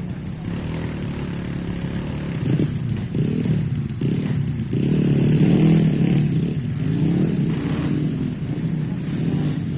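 Dirt bike engine running off-road, its revs rising and falling several times in the middle, then held higher and louder.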